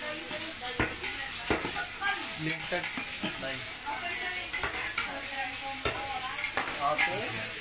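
Chopped lemongrass and chilies sizzling in a large aluminium pot over a gas burner while a spatula stirs and scrapes them, with sharp knocks about every second.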